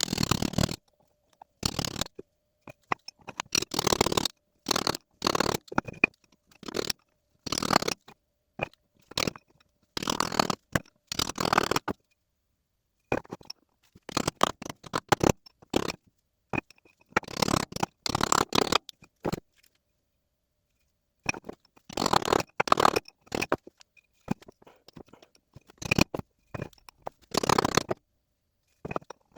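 A metal tool scraping and prying at a stubborn front shaft seal in an Eaton M62 supercharger's housing, working it loose. The seal is glued in, so it comes out only with repeated effort, heard as irregular bursts of scraping with short pauses between them.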